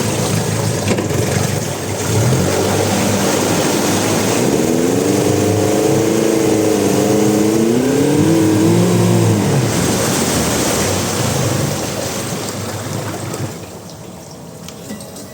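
Honda BF75A four-stroke outboard motor running, its pitch wavering up and down for a few seconds in the middle as the throttle is worked. The sound drops sharply near the end as it settles back.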